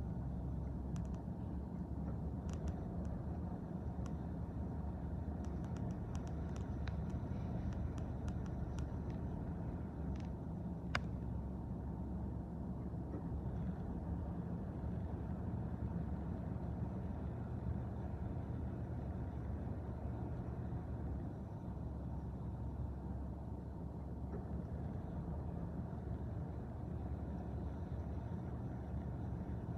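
Train rolling past with a steady low rumble, with scattered sharp clicks and squeaks during the first eleven seconds or so.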